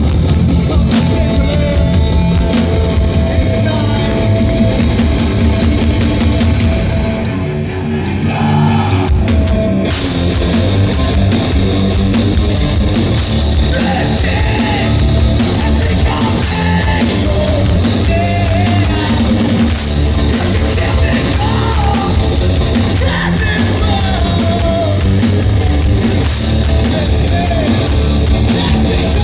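A live rock band playing loud, with distorted guitars, drums and a yelled, sung vocal; the band drops back briefly about a third of the way in, then comes back in full.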